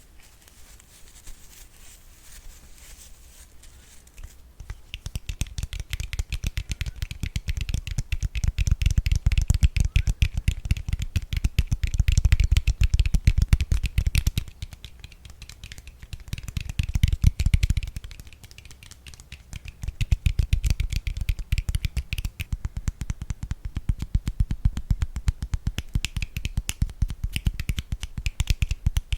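A brush stroked rapidly and repeatedly across the microphone, faint at first and then close and loud about five seconds in, each stroke giving a dull low rub and a crisp bristly swish.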